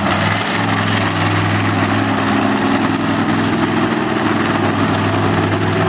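Monster truck engine running at a steady idle, a low, even engine note with no revving.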